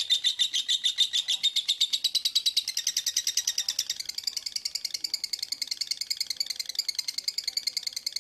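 Songbird chattering in a fast, unbroken string of sharp chirps, about seven a second and quickening, which shifts a little higher in pitch about three seconds in. This is 'speed rapat' masteran song, dense rapid birdsong played to train caged songbirds.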